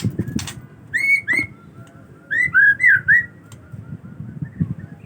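Male murai batu (white-rumped shama) whistling: two short rising-then-falling notes about a second in, then a quick run of four or five notes in the middle, over soft low knocks.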